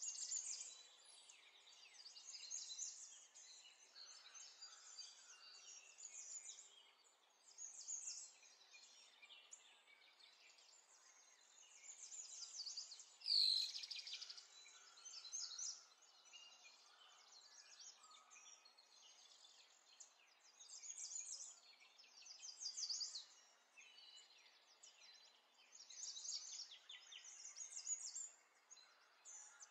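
Faint birdsong: many short high chirps and trills throughout, with one louder call about halfway through.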